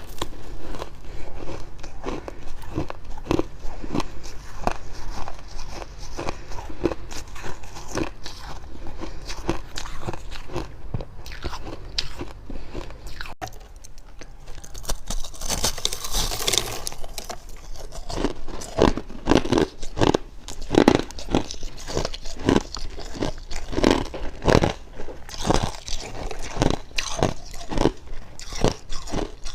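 A person biting and chewing freezer frost, with dry crunches following one another without pause. About halfway through there is a brief brighter, hissier spell, then crunches come at about two a second.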